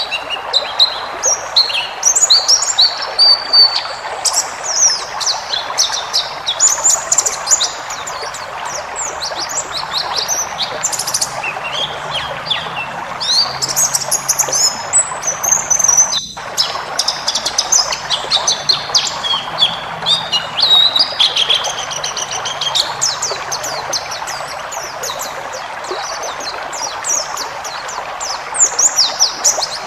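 White-eye (pleci) singing a long, rapid, high twittering song of quick chirps and trills, with an even hiss beneath it. The sound breaks off for an instant about halfway through.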